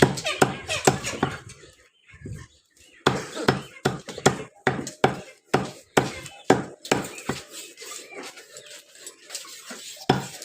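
Chicken being chopped with a cleaver on a chopping block: a rapid run of sharp chops that thins out after about seven seconds, with a last chop near the end.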